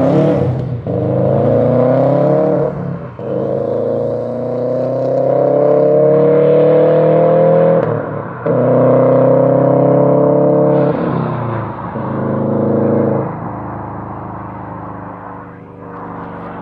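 Subaru accelerating hard away through the gears, its engine note rising in each gear with short drops at four gear changes. About thirteen seconds in it lifts off and the sound fades into the distance.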